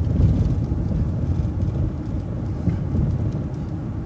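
Steady low rumble of a city bus driving along the street: engine and road noise.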